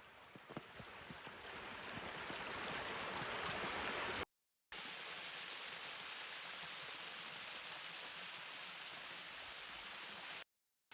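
Steady rushing of a flowing stream or river, with a few small clicks in the first second or so. It swells over the first four seconds and cuts out to silence twice, briefly, at edits.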